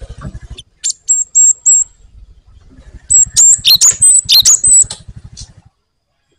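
Cinereous tit (gelatik batu) singing in high, thin whistled notes: a few short notes about a second in, then a longer run of rapid notes from about three to five seconds in, stopping just before the end.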